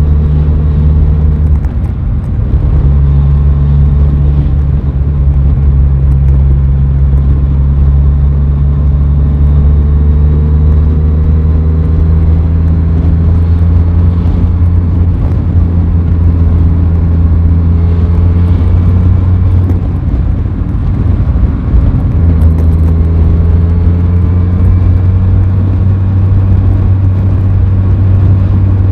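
Aprilia Tuono 660's parallel-twin engine running under way at a fairly steady engine speed, its low note briefly dropping out about two seconds in and again around twenty seconds in.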